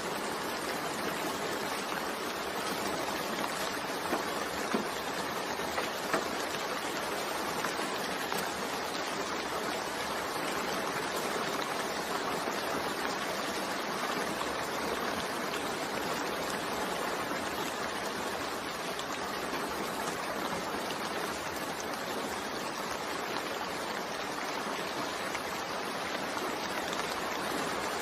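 Steady rain falling: an even, continuous hiss, with a few sharper drop taps about four to six seconds in.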